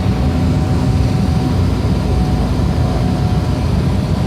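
Airliner cabin noise in flight: a loud, steady low rumble of engines and rushing air, with a faint steady hum over it.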